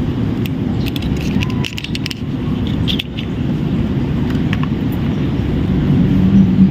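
Low rumble of road traffic, with scattered light clicks and knocks. Near the end a vehicle engine's hum grows louder at a steady pitch.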